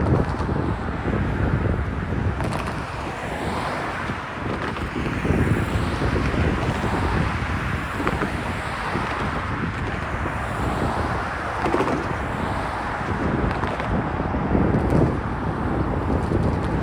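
Freight cars of a manifest train rolling past, steady wheel-on-rail rumble with irregular clunks, with wind buffeting the microphone.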